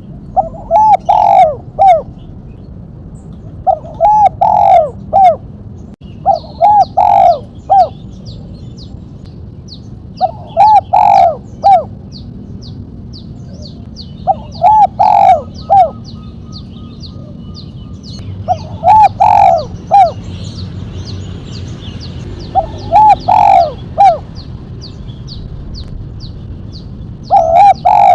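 Spotted dove (tekukur) singing its cooing phrase, a short run of low notes repeated about every four seconds, in the sharp 'mercik' song style. Through the second half a faint, fast, high ticking runs under it.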